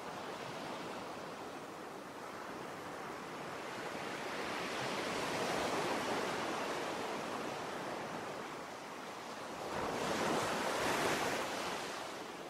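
Sea waves rushing in, a steady hiss that swells twice, once midway and again near the end.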